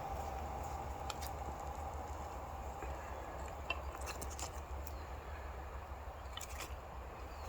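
Small kindling campfire crackling faintly, with a few scattered sharp pops, over a steady low rumble.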